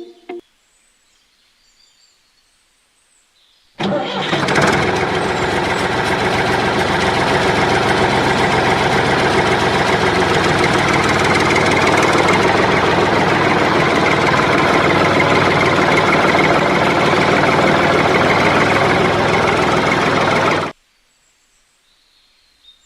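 A steady, engine-like motor sound from the miniature tractor runs for about seventeen seconds. It starts abruptly about four seconds in, after near silence, and cuts off suddenly near the end.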